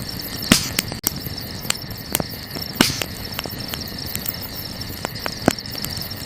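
Burning wood crackling with sharp pops, the loudest about half a second in and again near three seconds, over a steady high chirring of crickets.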